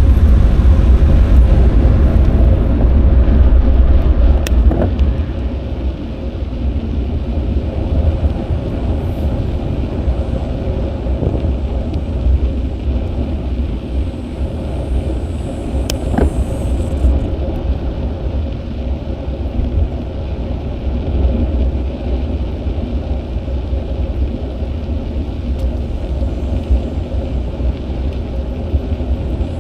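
Wind buffeting the microphone of an action camera riding along on a bicycle: a heavy low rumble, loudest for the first five seconds and then steadier, with a couple of sharp clicks.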